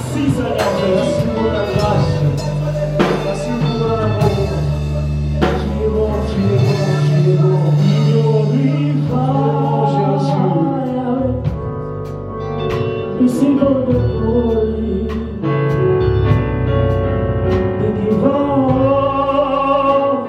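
Live gospel worship music: voices singing a melody over a band with a steady bass line and occasional drum and cymbal hits.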